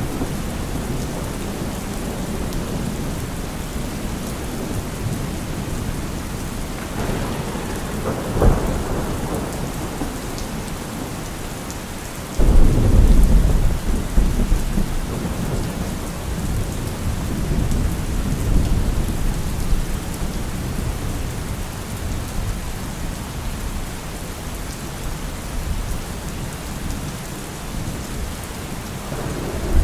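Heavy rain falling steadily, with thunder: a sharp crack about eight seconds in, then a loud, deep thunderclap about twelve seconds in that rumbles on for several seconds, and fainter rolls of thunder after it.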